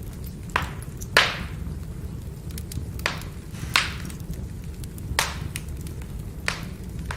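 Wood fire crackling: about seven sharp pops from burning firewood, the loudest about a second in, with small ticks between them over a steady low rush of the flames.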